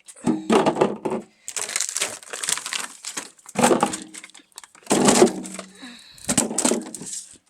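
Drinks and ice packs being packed and shifted inside a cooler, in several separate bursts of handling noise.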